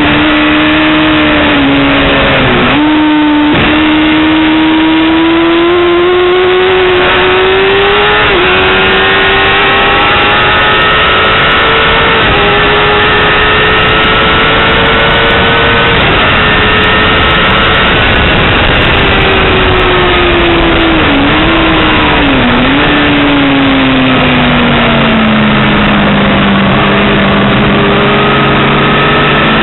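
Yamaha R6 600cc inline-four engine at high revs on track, pitch climbing steadily with brief dips about 3 and 8 seconds in. About halfway through the revs drop away with a couple of quick dips and fall low, then pick up again near the end, over constant wind rush.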